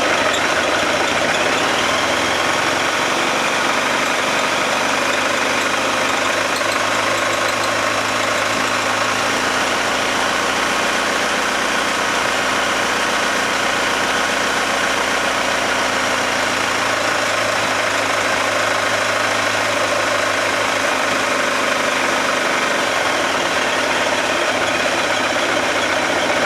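An engine running steadily at an even speed, its low hum changing for a stretch in the middle.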